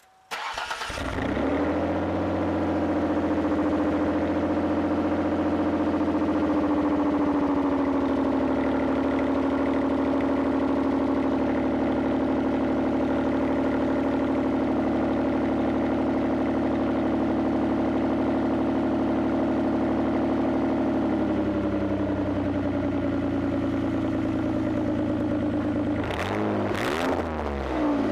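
2002 Mercury Cougar engine with its muffler removed, starting up about half a second in and settling into a steady idle through the shortened exhaust. Near the end it is revved twice quickly before dropping back to idle.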